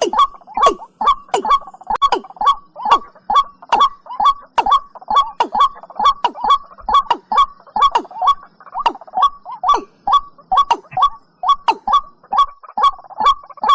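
Watercock (cúm núm) calling in a fast, steady series, about two to three short calls a second, each note dropping in pitch.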